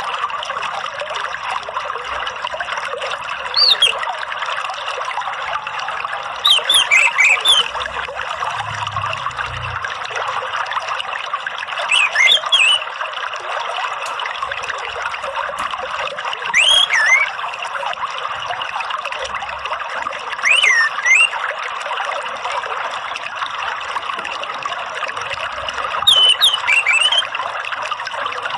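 Steady trickle of running water, with short whistled calls of an orange-headed thrush (anis merah) repeating about every four to five seconds. The calls serve as a lure to set a caged thrush singing.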